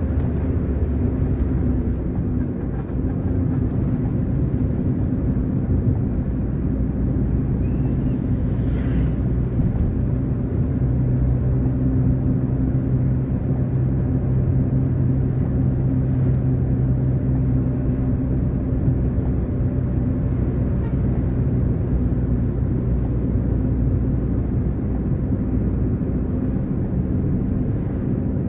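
A car being driven: a steady low drone of engine hum and road noise, with no change in engine speed.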